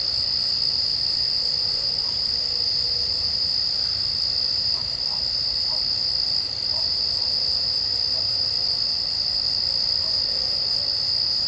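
A chorus of night insects, a continuous high-pitched trill that holds steady throughout.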